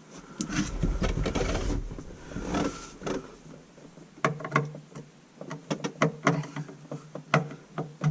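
Screwdriver snugging the metal mounting screws of a garbage disposal's sink mounting assembly, a little at a time on each: scraping and rubbing of metal parts for the first few seconds, then a run of sharp, irregular metal clicks.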